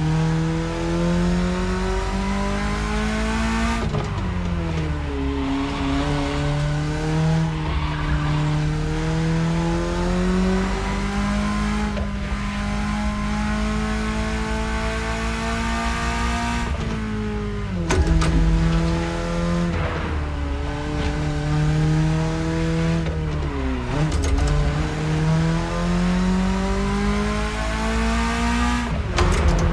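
BMW E30's engine pulling as the car is driven, its pitch climbing steadily through the revs and dropping sharply at each of four gear changes, the last near the end.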